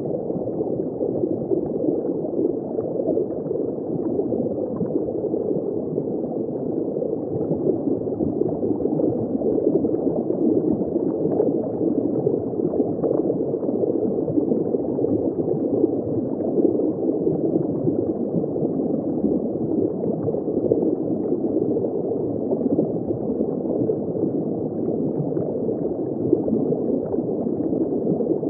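Steady underwater bubbling and gurgling of water heard from just below the surface, a muffled, dull wash with nothing high in it.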